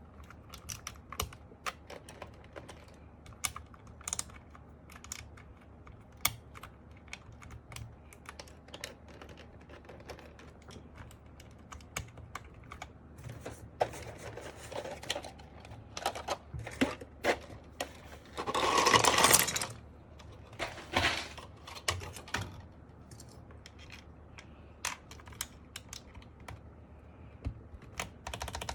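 Plastic clicks and taps from a mechanical keyboard being put together: keycaps and parts snapped and pressed into place one after another, at an irregular pace. About two-thirds of the way in comes a louder rattling rustle lasting about a second and a half, then a shorter one.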